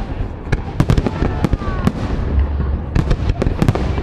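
Fireworks going off in quick succession: a dense run of sharp bangs and crackles over a low rumble, with a few short falling whistles about a second in.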